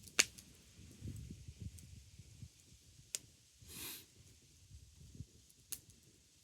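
Wood fire crackling: a few sharp pops, the loudest right at the start and others about three and six seconds in, over a low uneven rumble, with a short hiss just before the middle.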